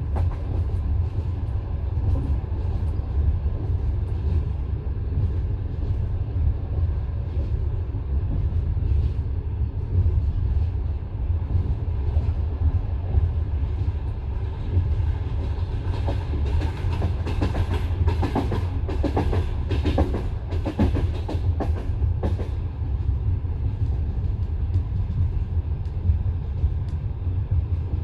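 Passenger train carriage running along the line: a steady low rumble of wheels on the rails. After about sixteen seconds, a run of sharp clicks and knocks from the wheels lasts several seconds.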